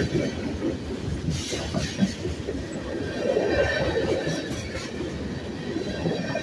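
Freight cars rolling past close by: a steady rumble and clatter of steel wheels on rail, with scattered clicks and a faint high-pitched wheel squeal.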